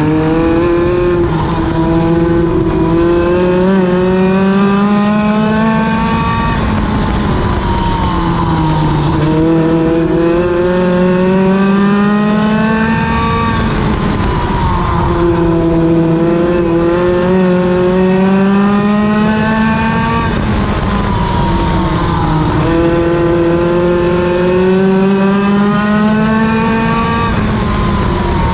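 NEMA Lite midget race car engine running on track. Its pitch climbs steadily for about six seconds and then drops sharply, four times over, as the car accelerates and lifts off.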